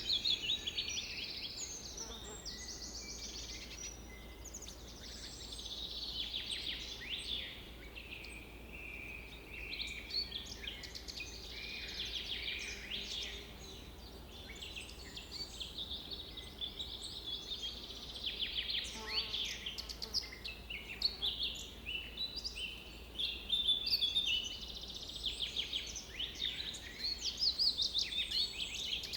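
Several songbirds singing at once: a steady chorus of overlapping chirps, trills and quick rising and falling whistles.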